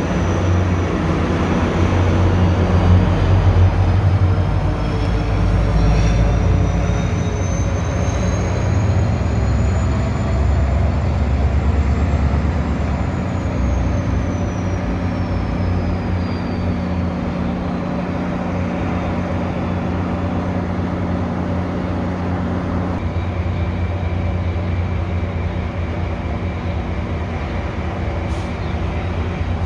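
MARC commuter train running, with a heavy low rumble that eases after about 13 seconds. A high whine rises steadily over the first dozen seconds and then falls away.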